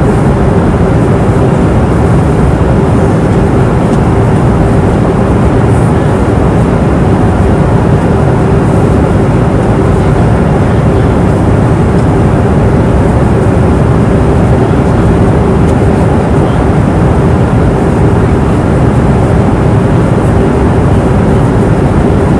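Airplane cabin noise in flight: a steady, even rush of engine and airflow noise, heaviest in the low end, with a faint steady hum running through it.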